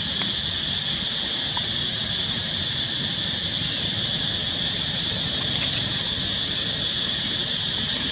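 Steady high-pitched drone of an insect chorus, unbroken throughout, over a faint low rumble.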